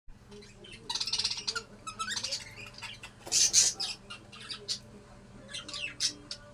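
Cockatiel chirping and calling in short, high notes, with one loud harsh screech about three and a half seconds in.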